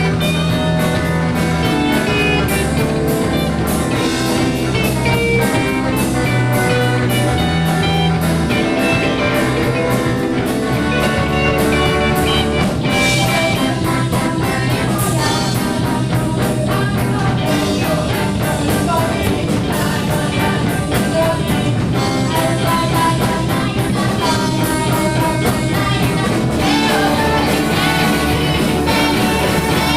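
Rock band music with electric guitar and drum kit at a steady beat, with a voice singing over it.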